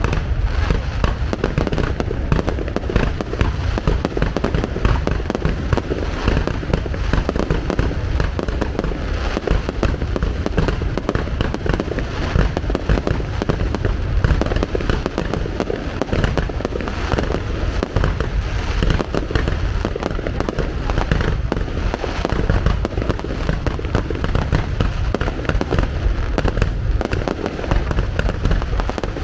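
Fireworks display: a dense, continuous barrage of overlapping bangs and crackle, steady without a break.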